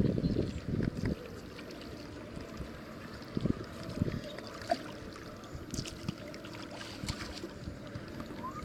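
Kayak paddling: paddle strokes in the water with light splashing and dripping and a few soft knocks. Wind buffets the microphone for the first second or so.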